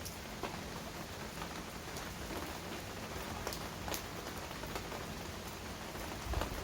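Heavy rain falling steadily, a dense even hiss with individual drops ticking sharply close by every second or so. A low rumble swells in near the end.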